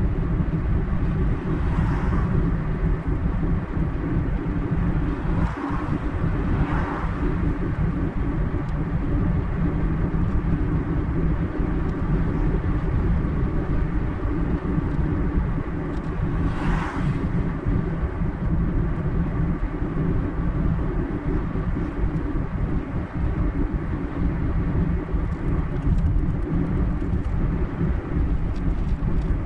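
Steady road and engine noise of a car driving along a highway, with a few brief swells of rushing noise about 2, 7 and 17 seconds in.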